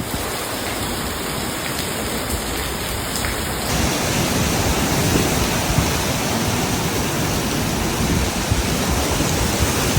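Heavy rain pouring down in a storm, a steady dense hiss that swells slightly partway through.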